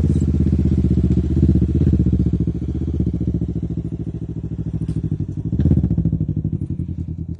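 Can-Am Ryker 600's Rotax 600 ACE twin running through an RLS Carbon Series aftermarket exhaust, idling with a deep, steady exhaust note and a few short blips of the throttle.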